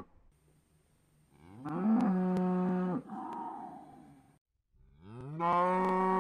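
Cow mooing: a moo about a second and a half in that rises in pitch and holds, then trails off into a softer rough exhale. A second moo starts near the end, rising and swelling.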